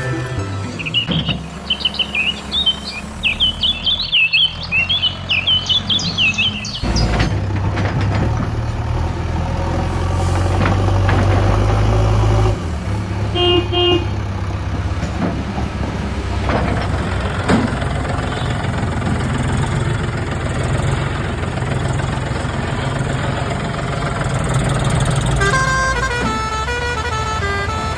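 Vehicle sounds: a low engine rumble with horn toots, and high chirping for the first several seconds.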